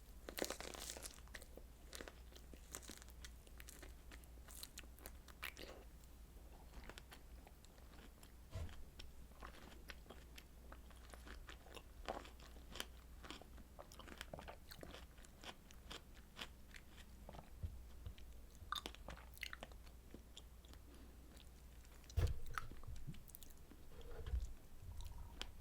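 A person chewing and biting strawberry desserts, with many small crunchy crackles and clicks of food and mouth, and a louder bite about 22 seconds in.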